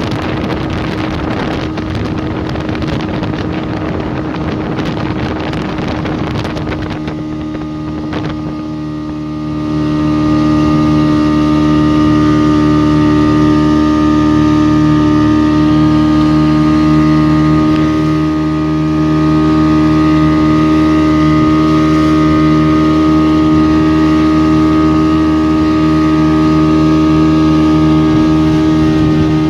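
A motorboat engine running steadily, with wind buffeting the microphone for the first several seconds. About nine seconds in, the wind noise drops away and the engine's steady hum becomes louder and dominant.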